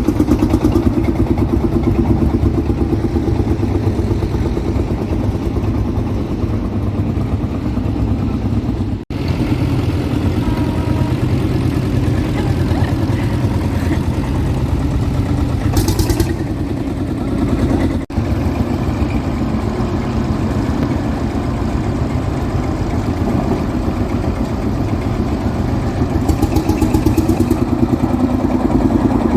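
Vintage tractor diesel engines running as the tractors drive off, a steady low pulsing beat. The sound breaks off for an instant twice.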